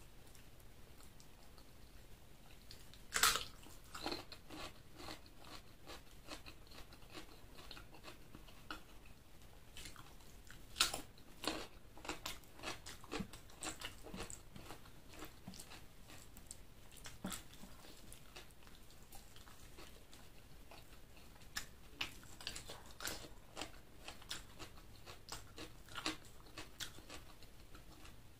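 Close-miked chewing and biting of a meal of chicken liver and gizzard with rice, with crunchy bites and irregular sharp mouth clicks; the loudest bites come about three seconds in and near eleven seconds.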